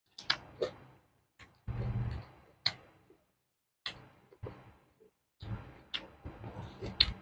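Close-miked eating: a person biting and chewing crunchy food from a meal of raw vegetables and fried fish, with sharp crunches and short bursts of chewing at an uneven pace, and brief pauses between bites.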